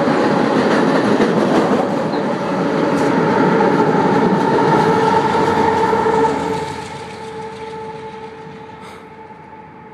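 A train passing directly overhead on the track about ten feet above: a loud, dense clatter and rumble with a steady whine running through it. About six seconds in, it begins to fade as the train moves off.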